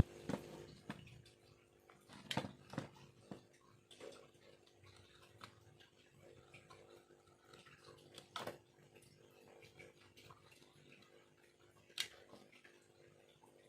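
Irregular light clicks and taps of a hand carving tool working bamboo, with a few sharper knocks, about one near the start, two around a third of the way in, one past halfway and one near the end, over a steady low hum.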